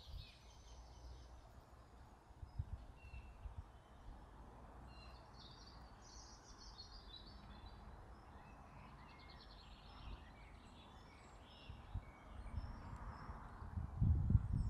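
Faint birdsong: scattered high chirps and short twittering phrases over a low rumble that grows louder near the end.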